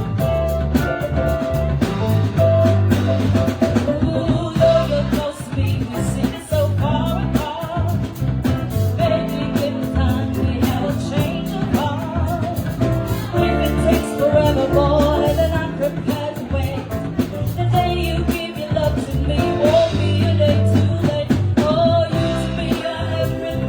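Live band music with a singer, drum kit and bass.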